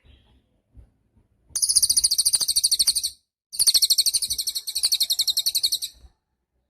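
A cililin songbird singing two high, rapid trills of evenly repeated notes, the first about a second and a half long, the second about two and a half seconds long after a short pause.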